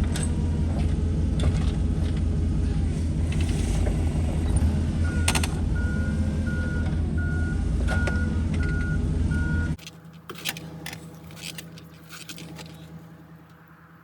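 Forklift engine running, loud and steady; about halfway through its reversing alarm starts beeping steadily, about seven beeps. The engine and beeping cut off abruptly near the end, leaving a few quieter clicks and knocks.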